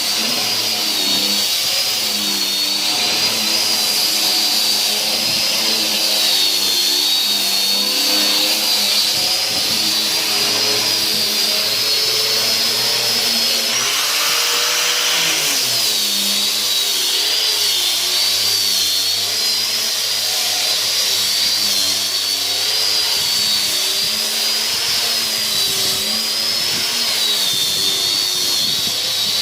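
Electric woodworking power tool running continuously, its motor whine wavering in pitch as the load changes while it cuts into wood, with a brief drop and recovery about halfway through.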